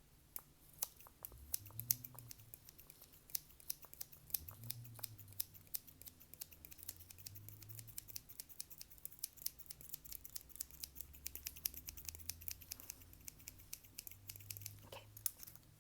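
Fast, irregular finger tapping and clicking close to the microphone: many sharp little clicks a second, with a few soft low thuds underneath.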